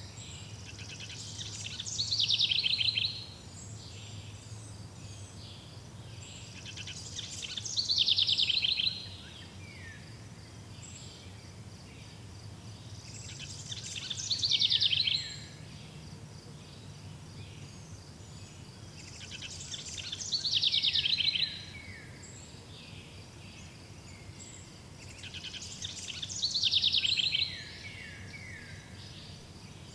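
A songbird singing the same two-second phrase five times, about every six seconds: a rapid trill ending in a few falling notes. A faint steady chirring of insects and a low hum run underneath.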